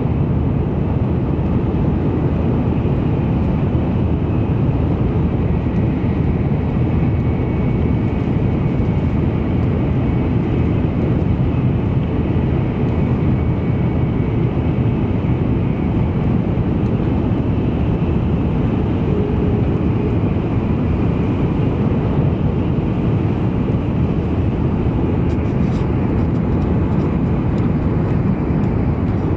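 Cabin noise inside an N700 series Shinkansen running at high speed: a steady low rumble with a faint high whine above it.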